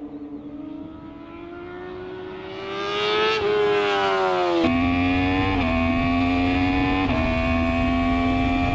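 Inline-four superbike engine accelerating hard, its pitch climbing and then dropping at gear changes. Partway through it changes abruptly to a louder recording, where it pulls through two more upshifts.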